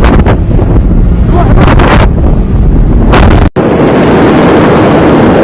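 Deep, overloaded rumble of the Beirut port explosion's blast on phone microphones, with a hard cut to a second clip of the same roar about three and a half seconds in.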